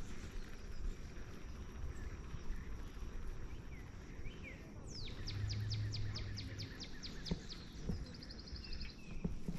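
A songbird singing a rapid series of about a dozen high down-slurred notes, followed a moment later by a short fast trill, over faint outdoor background noise.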